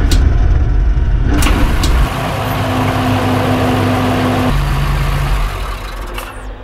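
Dakar rally buggy's engine running at steady revs, close to the onboard microphones, its note shifting abruptly twice and fading out near the end.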